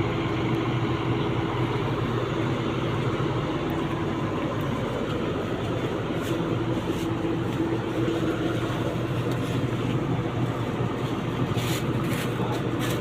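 Excavator's diesel engine running steadily at a constant speed, with a few light clicks near the end.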